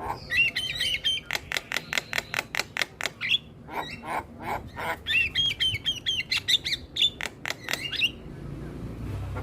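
Javan myna (jalak kebo) song used as a lure recording: quick warbled whistles alternating with fast runs of sharp clicking notes, pausing briefly near the end.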